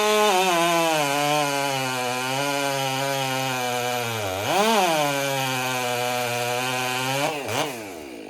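Stihl MS 400 C two-stroke chainsaw with an Egan Straight Shot muffler cutting wood under load. The engine speed sags steadily, dips hard and picks back up about halfway, then rises briefly and drops off near the end. The owner feels the open exhaust has cost the saw some torque.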